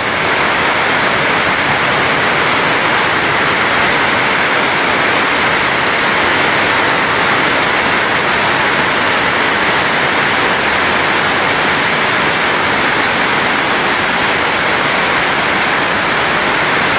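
Heavy tropical downpour: a loud, steady hiss of rain with no break.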